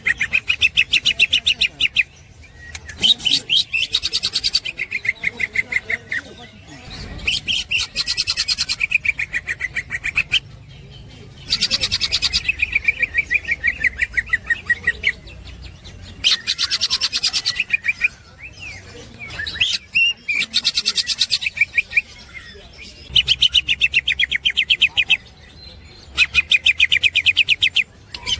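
Cucak ijo (green leafbird) singing its ngekek song: long bouts of very fast, rattling high chatter, each a few seconds long, repeated again and again with short pauses between.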